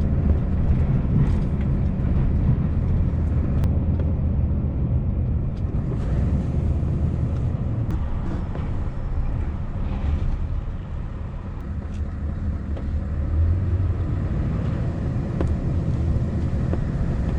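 Scania S650's V8 diesel engine running at low, steady revs as the lorry drives slowly, with a few faint clicks.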